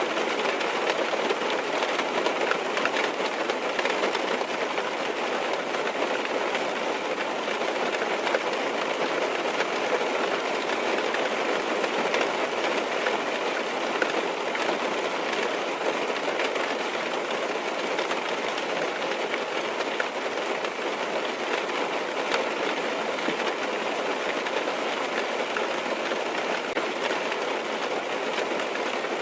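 Rain falling on a car's roof and windows, heard from inside the car: a steady, even hiss of rain with an occasional sharper single drop tick.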